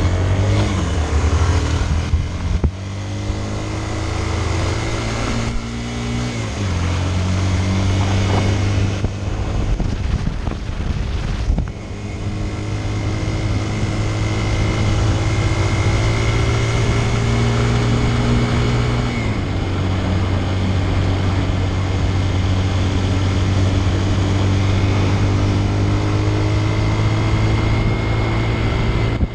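Motorcycle engine running steadily under way, its note stepping to a new pitch about 7 seconds in and again about 19 seconds in, with wind rushing over the microphone.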